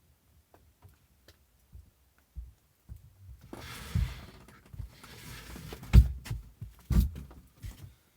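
Handling noise: small ticks, then rustling with several dull knocks about four, six and seven seconds in, the one near six seconds the loudest.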